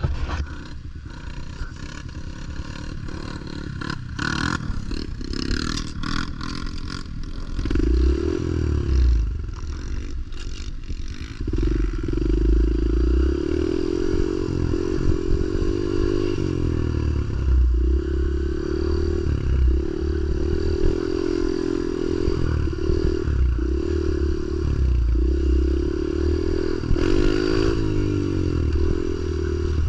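Clattering and scraping for the first several seconds, then a pit bike's small engine revving hard and dropping back again and again, the throttle worked repeatedly as in wheelie attempts.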